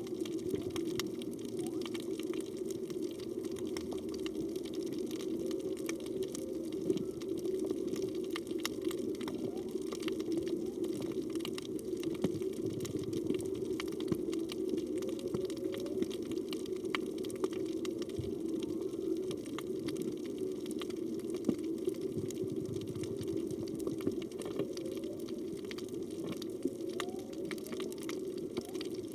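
Underwater ambience picked up by a phone in a waterproof housing: a steady hum with a constant crackle of small clicks. A couple of faint short rising calls come through, about halfway through and near the end.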